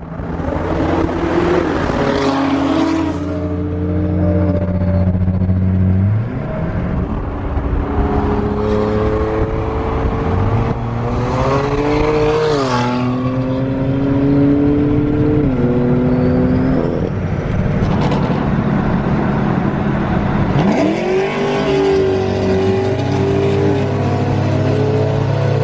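Twin-turbo Audi R8 V10 revving hard and held at high revs, its pitch stepping and gliding up and down several times. A lower steady drone sits underneath near the start and again near the end.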